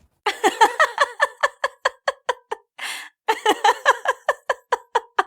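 A woman laughing hard in quick high-pitched bursts, two long runs of "ha-ha-ha" with a breathy gasp between them about three seconds in.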